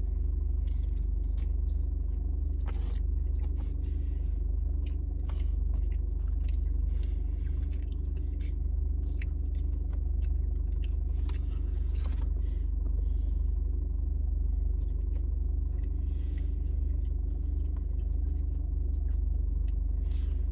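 A person biting into and chewing a chocolate chip muffin, with scattered soft mouth clicks and crunches. A steady low rumble runs underneath.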